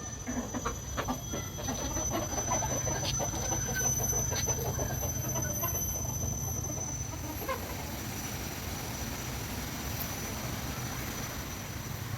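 Chickens clucking, a busy chatter of short calls that dies away about seven and a half seconds in, leaving a steady low rumble.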